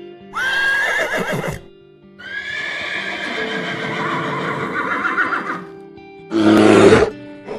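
Horse whinnying twice, a short call and then a long quavering one, over background music. Near the end comes a short, loud, rough burst of another animal sound.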